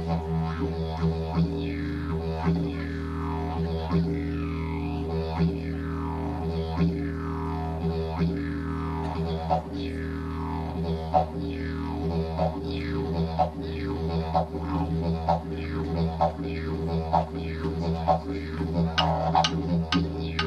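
Didgeridoo played live: a steady low drone with overtones that sweep down in a repeating rhythm about every second and a half, and sharper, quicker rhythmic pulses near the end.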